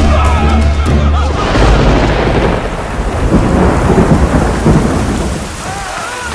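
Thunder rumbling over heavy rain. The rumble swells about a second and a half in and dies down near the end, while a low bass carries on underneath for the first second or so.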